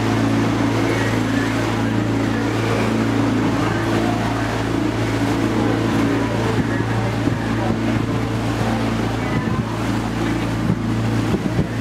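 A river tour barge's compressed-natural-gas engine runs steadily, giving a continuous low hum.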